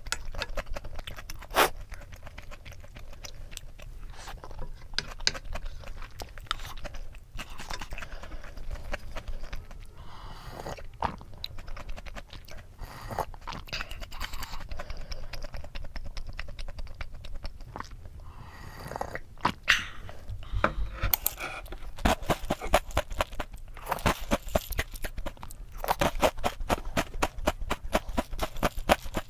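Close-up eating sounds: chewing and a wooden spoon working a ceramic bowl of rice. About two-thirds of the way in this gives way to a fast run of crisp crunches as Oreo O's cereal in milk is chewed.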